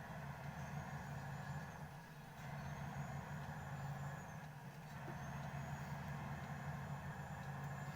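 Steady engine hum and road noise of a car being driven.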